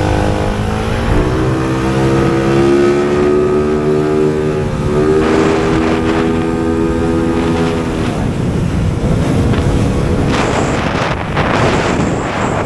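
Motorcycle engine revving: the pitch rises about a second in, holds high, steps up again, then drops back. A rougher, noisier stretch follows near the end.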